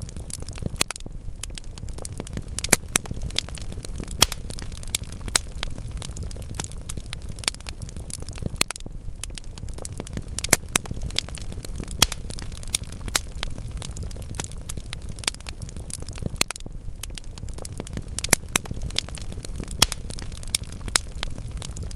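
Wood fire burning in a fireplace: logs crackling with frequent sharp, irregular pops over a low steady rumble of the flames.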